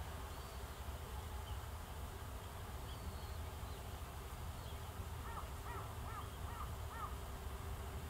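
A bird calls a quick series of five arched, evenly spaced notes a little past the middle, with a few faint high chirps of small birds earlier on. Under it runs a steady low outdoor rumble.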